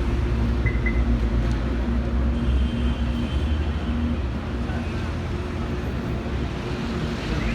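Royal Enfield Himalayan single-cylinder motorcycle running steadily: a low engine hum under an even haze of road and wind noise.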